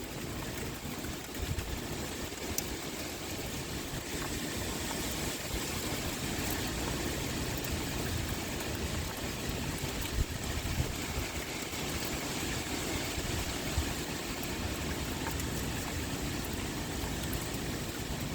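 Rain pouring steadily, with wind blowing in uneven low rumbles beneath it.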